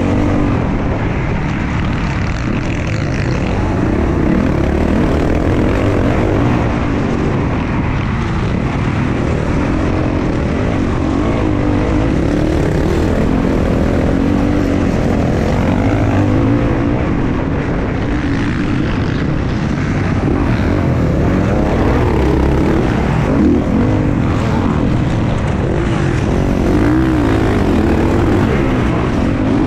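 Motocross dirt bike engine running hard throughout, its pitch rising and falling repeatedly as it revs up and down.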